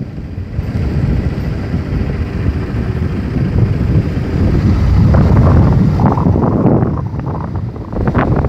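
Wind buffeting the microphone of a moving motorcycle, over the rumble of the bike running. The rush swells louder past the middle, then eases near the end.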